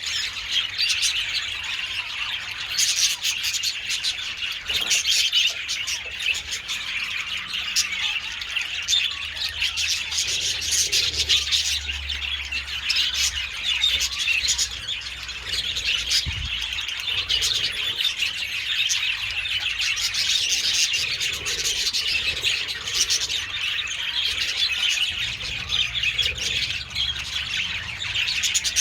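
A colony of budgerigars chattering continuously, many birds calling at once in a dense, unbroken mix of high warbles and chirps.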